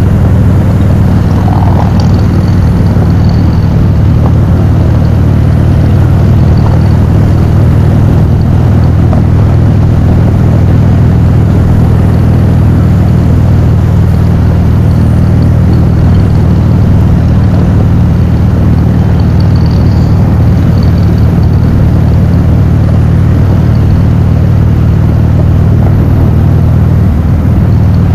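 Motorcycle cruising at steady road speed: a constant low engine drone under a steady rush of wind noise.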